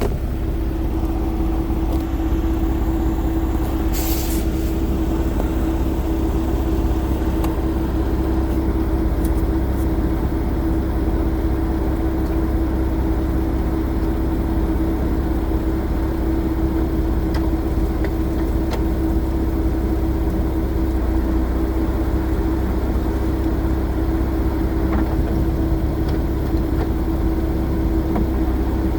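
Nissan 370Z running with a steady hum and a low rumble, broken by a few sharp knocks, the loudest about four seconds in. The owner takes the clunk to be a driveshaft fault but is not sure.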